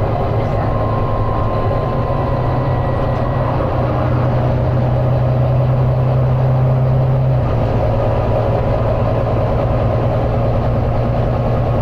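Volvo B9TL double-decker bus's six-cylinder diesel engine running hard at speed, heard from inside the bus as a loud, steady deep drone whose note drops slightly about seven seconds in. A faint thin whine rides over it for the first few seconds.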